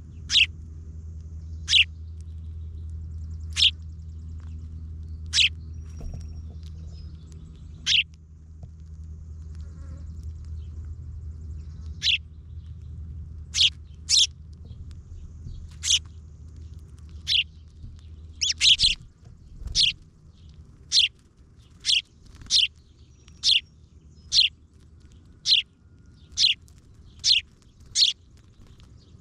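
A bird repeating a single short, sharp, high chirp about two dozen times, sparsely at first and then about once a second in the second half. A steady low hum runs underneath and fades out about two-thirds of the way through.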